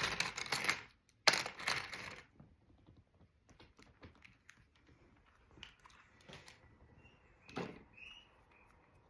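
Plastic LEGO pieces being rummaged through and handled while looking for parts: two rattling bursts in the first two seconds, then scattered light clicks and taps.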